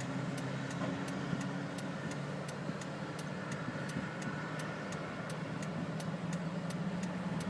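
Steady low hum of vehicle engines as convoy traffic goes by, heard from inside a car, swelling slightly near the end. Faint, regular high ticks run through it, about three a second.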